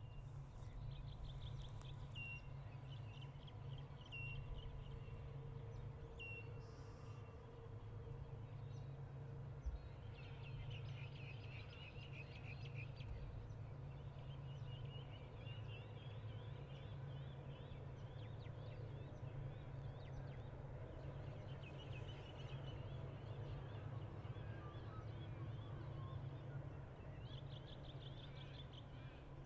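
Birds calling, with short repeated chirps and bursts of rapid trilling, over a steady low background rumble.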